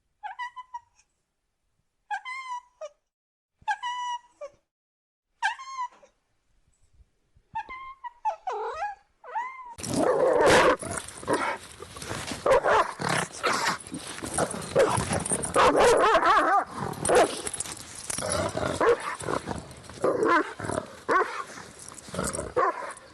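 A dog whining in about five short high calls, then from about ten seconds in a dense, loud run of barking and growling.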